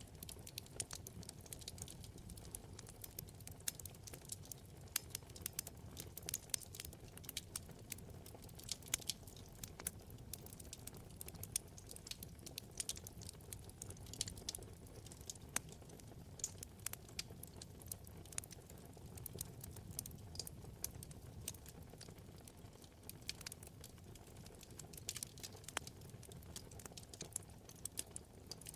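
Wood fire crackling steadily: many small, irregular pops and snaps over a soft low rumble of the flames.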